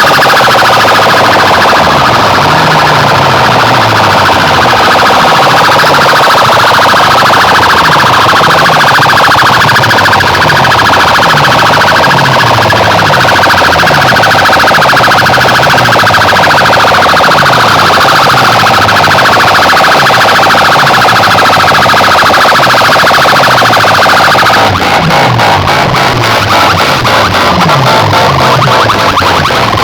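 DJ sound system playing a very loud siren-style electronic effect, a warbling wail over a bass line of repeated falling tones. Near the end the wail gives way to a fast, driving beat.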